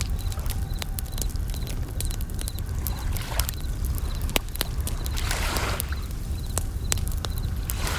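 Campfire crackling with frequent sharp pops over a steady low rumble, while bell crickets chirp high in the background. Waves wash in three times, about three, five and a half and eight seconds in.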